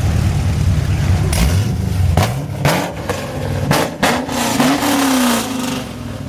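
Car engine idling, then revved in several quick blips through the exhaust, the last rev held longer, rising and then falling back toward idle near the end.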